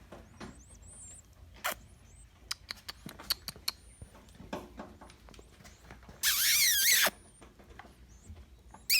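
Faint, high, wavering chirps of nestling birds, with a few sharp clicks of handling. About six seconds in comes a loud wavering squeal lasting under a second, and another short one at the very end.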